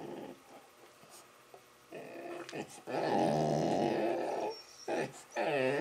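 Labrador retriever making play growls while roughhousing: several drawn-out, pitched growling grumbles, the longest lasting about a second and a half from about three seconds in.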